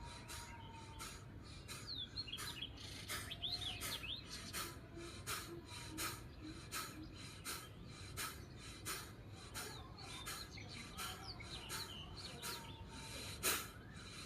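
Birds chirping and twittering in short bursts of calls, over an evenly repeating hissy pulse of about one and a half beats a second.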